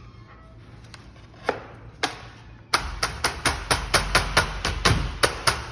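Two single sharp knocks, then a fast run of about a dozen knocks, some four to five a second: a double-hung window part being knocked back into place.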